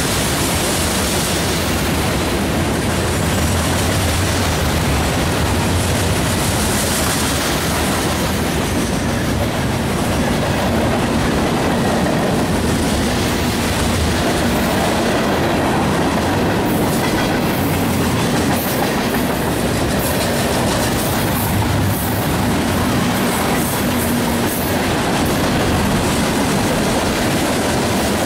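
Freight train cars rolling past close by, with a steady loud rumble of steel wheels on the rails and faint clicking in the second half.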